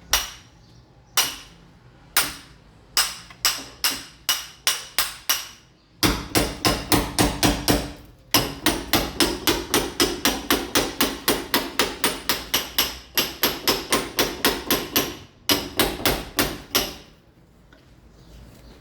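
Mason's hammer blows chipping a masonry wall to roughen it for ceramic tile. The hammer strikes singly at first, then in a fast steady run of about four to five blows a second, and stops shortly before the end.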